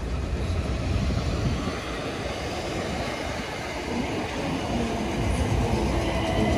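Southern electric commuter train running past along the platform: a steady rumble of wheels on the rails, joined about five seconds in by a thin high tone.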